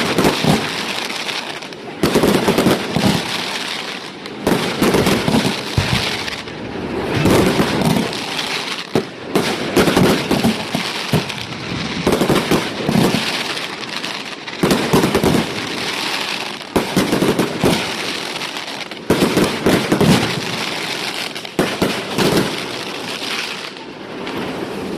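Display fireworks going off in a rapid run of loud bursts, about one every one to two seconds, each bang trailing off into a rumble before the next.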